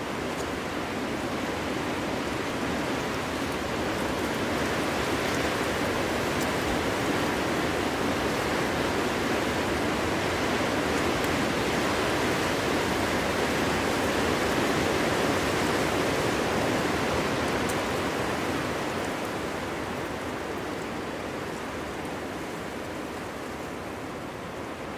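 Wind blowing through a forest, a steady rushing noise that swells to a peak about halfway through and eases off near the end.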